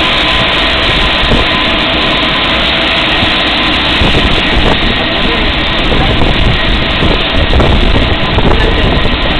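P-3C Orion's four Allison T56 turboprop engines running at close range, a very loud steady roar with a high whine laid over it.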